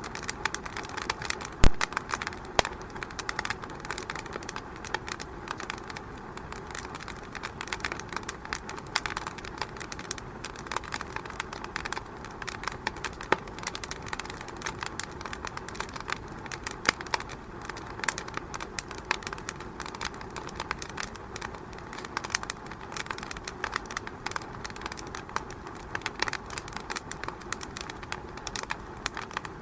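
Wood fire burning in a fireplace, crackling steadily with dense, irregular snaps and pops over a low hiss; one much louder pop about two seconds in.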